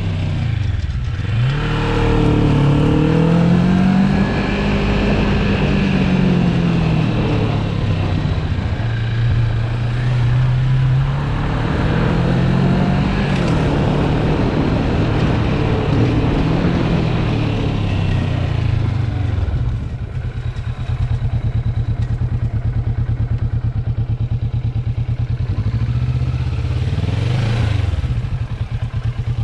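Motorcycle engine under way, its revs rising and falling through gear changes, then dropping to a steady, even idle about two-thirds of the way through.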